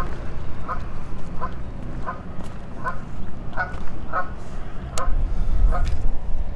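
A bird giving a run of short calls, about nine of them evenly spaced a little more than one a second, over a low wind rumble on the microphone.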